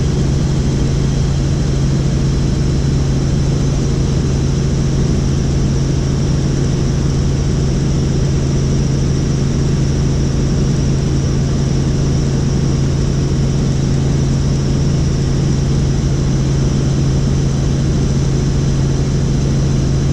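Helicopter in flight, heard on board: a steady, loud drone of engine and rotors with a strong low hum that does not change.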